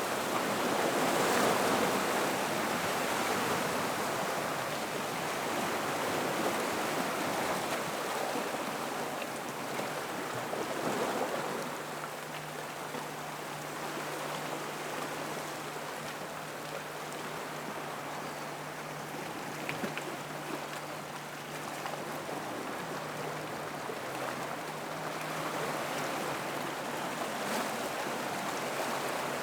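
Gentle ocean waves washing in and out of a rock pool, the water noise swelling louder over the first few seconds and again near the end, with a faint low steady hum through the middle.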